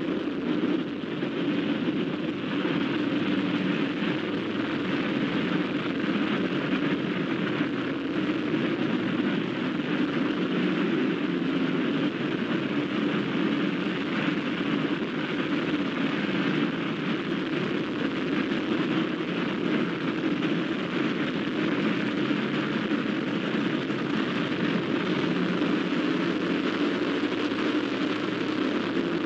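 A vehicle engine running steadily with a loud, even drone and rushing hiss.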